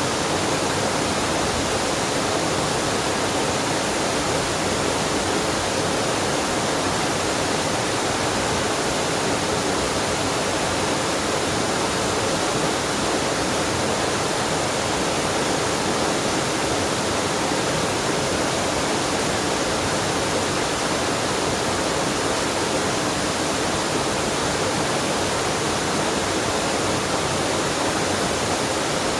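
Waterfall and mountain stream water rushing steadily, an unbroken even roar of falling and flowing water.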